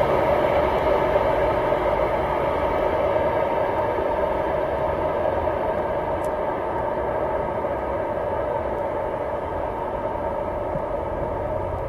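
Container freight train rolling along the track: a steady rumble of wagons and wheels that slowly fades as the train draws away.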